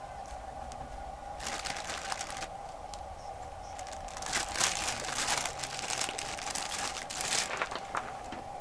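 Crinkling and rustling of something being handled, in two spells: about a second long starting a second and a half in, then about three seconds from the middle on.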